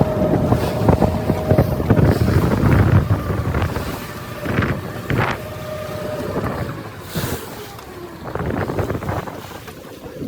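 Boat engine running under heavy wind noise on the microphone, with water washing and a few sharp knocks around the middle.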